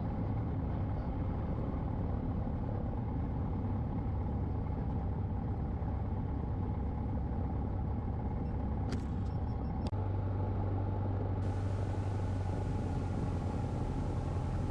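Cessna 150's Continental O-200 engine idling, heard from inside the cabin as a steady low drone. Two faint clicks come about nine and ten seconds in.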